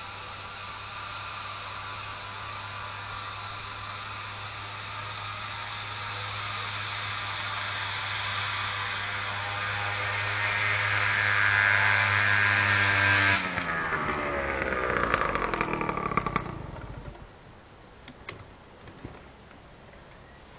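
Engine running with no exhaust fitted, a steady note that grows louder, then switched off about 13 seconds in and winding down over a few seconds. A couple of faint clicks follow.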